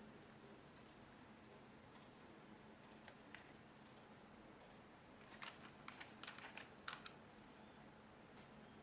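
Faint clicks of keys being pressed on a wireless computer keyboard: a few scattered single clicks, then a quick run of several key presses about five and a half seconds in.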